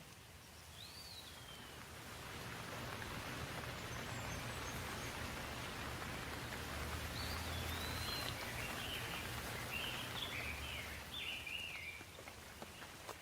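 Rain falling as a steady hiss that swells after a couple of seconds and eases near the end, with a bird calling over it: one whistled call about a second in, then a run of short chirps in the second half.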